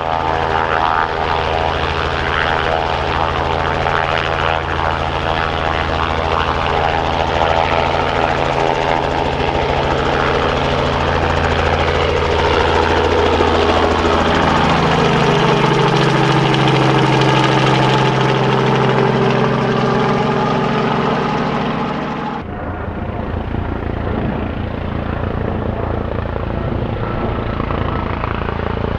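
Helicopter running close by, a steady turbine-and-rotor drone with several held tones that shift in pitch about halfway through. About 22 seconds in the sound changes abruptly to a duller, noisier rotor chop of a helicopter.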